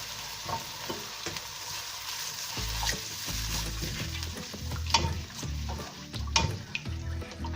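Curry gravy sizzling in a hot pan as it is stirred, with the spoon knocking against the pan several times.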